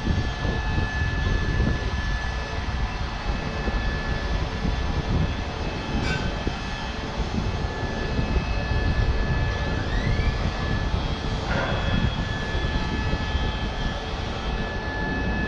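A steady, loud mechanical rumble, like a large engine or machinery running, with a thin steady whine over it. A couple of faint rising squeaks come about two-thirds of the way through.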